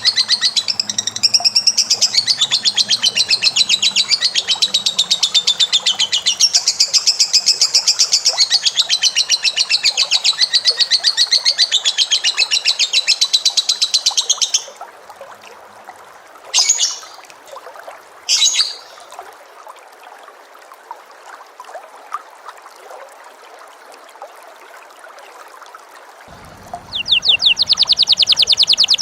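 A caged pet bird's long, rapid, continuous trilling chatter, the kind of song kept for training other birds. It breaks off about halfway through, two short calls follow, and a new rapid trill starts near the end.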